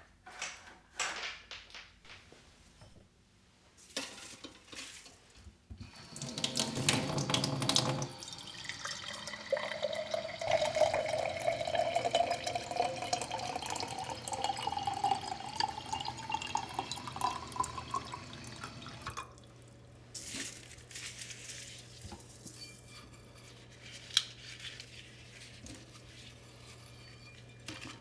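Water running from a tap into a container for about twelve seconds, its pitch rising slowly as the container fills, then shut off. A few light clicks and knocks come before it.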